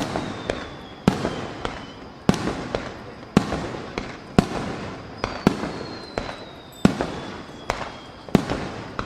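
Aerial firework shells bursting about once a second, each sharp bang trailing into crackling. A faint high whistle slides slowly downward twice.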